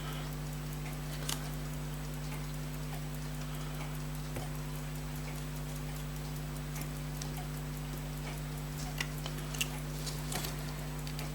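Scattered light metallic clicks of small tools on pocket watch parts and screws, a few isolated and a small cluster near the end, over a steady low electrical hum.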